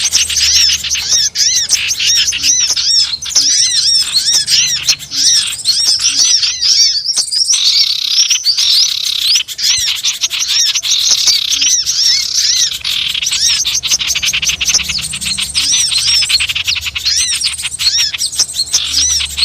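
Bird-lure recording of many small wild birds chirping and twittering at once: a dense, continuous chorus of short, quick arched chirps. It is the kind of noisy flock call played to draw wild birds in.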